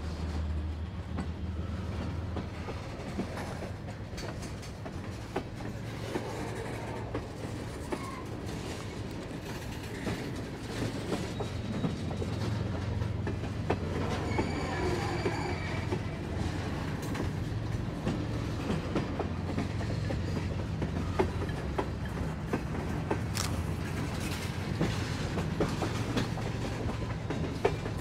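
CSX freight train of tank cars rolling past: a steady low rumble of wheels on rail, with scattered clicks and clanks as the wheels cross rail joints. A brief high squeal rises around the middle, and a sharp clank stands out near the end.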